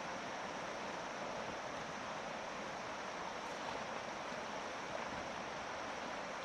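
Steady rushing of fast-flowing water, an even noise with no breaks.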